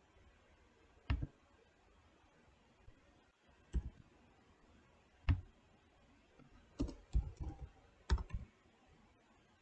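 Keystrokes on a computer keyboard: three single key presses a couple of seconds apart, then two quick runs of several keys near the end.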